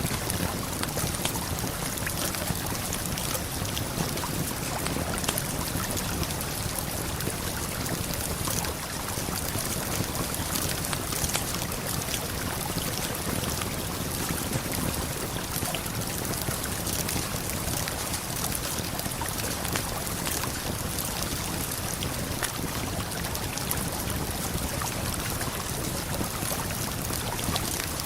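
Constant rush of a river and waterfall, with small campfire crackles scattered through it.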